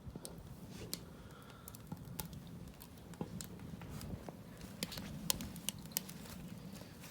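Wood fire crackling in a fire barrel, with irregular sharp pops and snaps.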